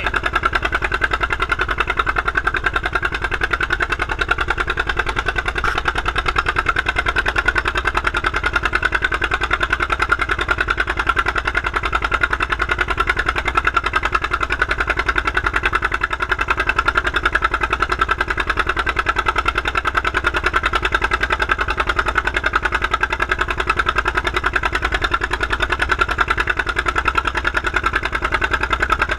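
John Deere B tractor's two-cylinder engine running steadily, with an even, rapid beat that holds without change.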